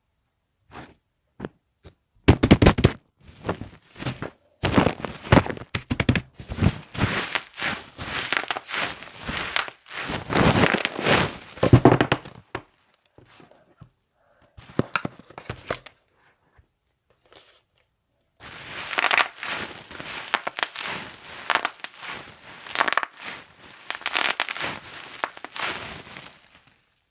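Plastic bubble wrap being popped and crinkled by hand: many irregular sharp pops mixed with crinkling. They come in two long busy spells, with only a few scattered pops in the middle.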